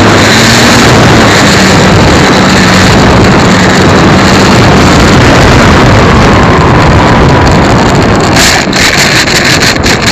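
Model airplane's motor running in flight, buried in loud, distorting wind rush. About eight seconds in the sound turns choppy, with rapid dips in loudness.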